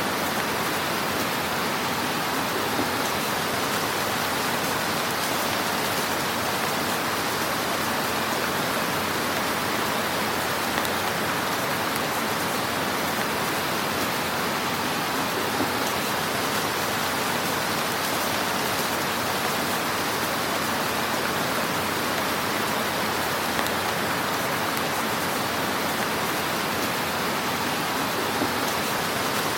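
Wood fire crackling in a fireplace: a steady hiss of fine crackle with a few slightly louder pops.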